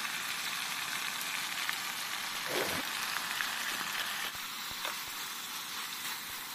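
Chicken pieces with onions and dried red chillies frying in oil in a pan, a steady sizzling hiss with small crackles.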